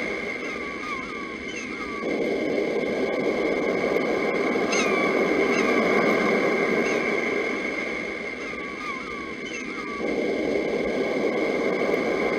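Sea surf rolling and breaking, swelling about two seconds in and again near the end. Over it, a bird repeats short, curved chirps in small groups, above a steady high tone.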